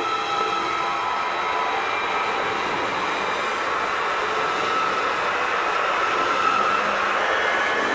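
Electric multiple-unit passenger train passing close by: steady rolling noise of wheels on rail with a thin high whine over it, growing slightly louder as the cars go by.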